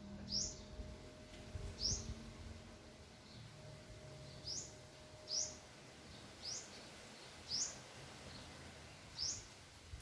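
A bird repeating a single short, high chirp, seven times with a gap of a second or so between notes.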